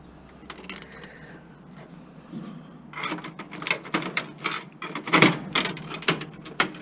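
Sharp clicks, knocks and metallic clatter of parts being pried and handled while a scrap appliance is stripped. The knocking starts about three seconds in and comes in an irregular run, loudest a little past the middle.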